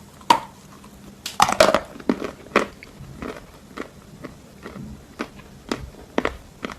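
A person biting into a round piece of edible chalk and chewing it, with crisp dry crunches. The loudest is a cluster of crunches about a second and a half in, as the piece is bitten through. Single chewing crunches follow at roughly two a second.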